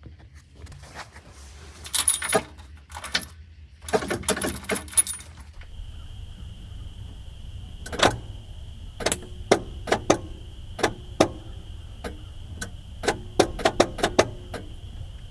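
Ignition keys and keyring jangling, with a series of sharp clicks as the key is worked in the switch. A steady high-pitched tone comes on about a third of the way in and keeps going.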